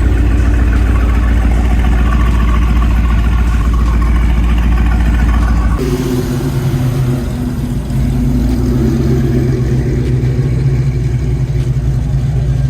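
Car engine running at idle with some revving; about six seconds in the sound changes abruptly to a different engine note, steady and low-pitched.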